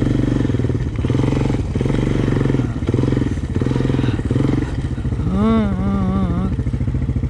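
A single-cylinder Honda ATV engine idling, its throb swelling and easing slightly about once a second. Just past the middle, a short wavering vocal sound rises over it.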